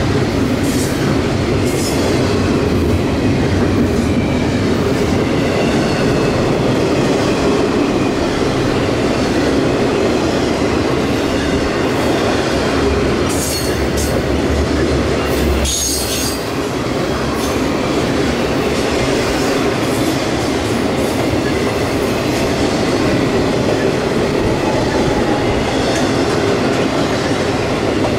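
Norfolk Southern intermodal freight train rolling past, a steady loud noise of wheels running on the rails. A few brief high-pitched wheel squeals cut through, the strongest about halfway through.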